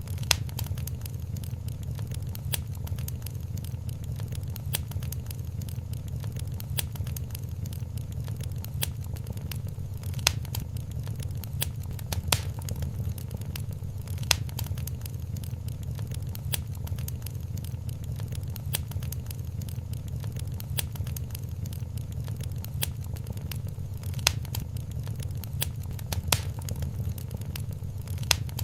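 Wood fire crackling in a fireplace: a steady low rumble of the flames with constant small crackles and a sharper pop every few seconds.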